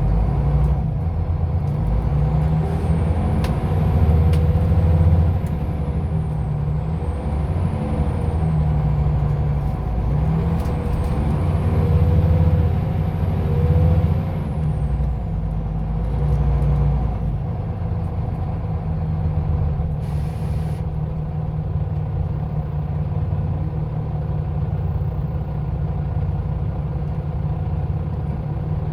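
Scania OmniLink city bus running under way, its engine note rising and falling as it pulls away and changes gear, with a high whine gliding up and down. A short hiss of compressed air about twenty seconds in.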